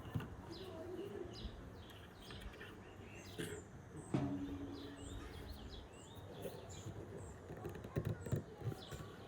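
Small birds chirping in quick, repeated short calls, with a few sharp knocks or clicks in between.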